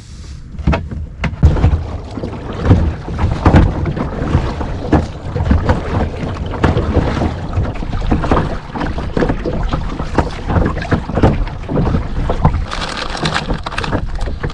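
Kayak paddle strokes splashing and dripping, about one or two a second, with wind buffeting the microphone.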